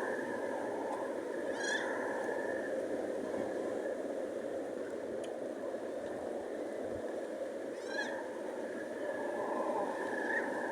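Two short, falling seabird calls, about two seconds in and again near eight seconds, over a steady rushing background.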